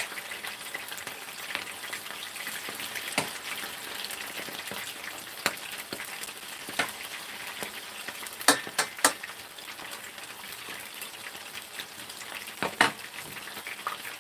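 Battered squid frying in a pan of hot oil: a steady sizzling hiss. Now and then a sharp click of metal tongs against the stainless steel pot of batter, the loudest two in quick succession a little past the middle.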